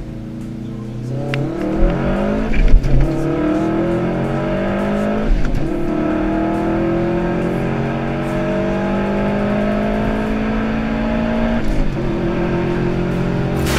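A 2011 Subaru WRX's turbocharged 2.5-litre flat-four, with a catless downpipe and aftermarket axle-back exhaust, accelerating hard through the gears of its five-speed manual, heard from inside the cabin. The engine pitch climbs in each gear and drops at upshifts about three and five seconds in, then a long pull before a last shift near the end.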